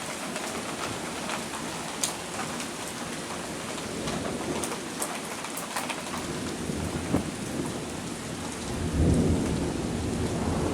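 Heavy rain falling steadily during a thunderstorm, with a few sharp drop hits close by, and a low rumble of thunder swelling up about nine seconds in.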